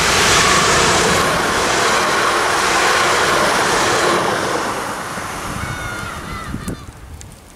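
SNCB AM08 Desiro electric multiple unit passing close at speed: a loud rush of wheels and air that is strongest for the first four seconds, then fades away as the train recedes.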